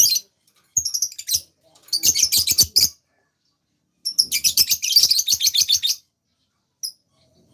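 A songbird singing in quick, high-pitched chirping phrases separated by short pauses, the longest phrase running about two seconds from about four seconds in.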